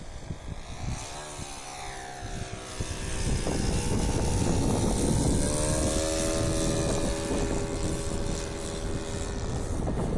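Remote-controlled model airplane (a Cessna 177 Cardinal scale model) flying overhead, its motor and propeller running with a steady tone. The pitch falls about a second in, then the sound grows louder near the middle and holds steady.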